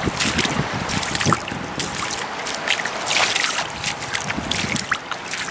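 Shallow seawater splashing and sloshing at the shoreline in irregular little bursts, with wind buffeting the microphone.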